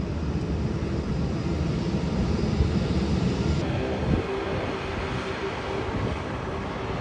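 Airliner engine noise: a low rumble that eases off about four seconds in, leaving a steady hum.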